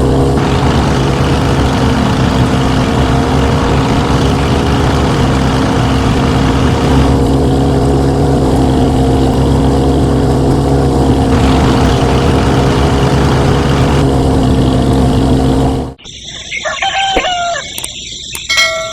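A small motor runs steadily with a constant hum, then cuts off abruptly near the end. A chicken clucks in the last few seconds.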